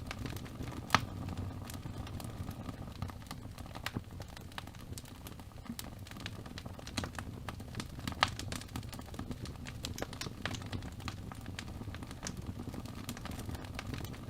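Wood fire burning in a fireplace: a steady low rumble of flames with frequent crackles and sharp pops, the loudest pops about a second in and about eight seconds in.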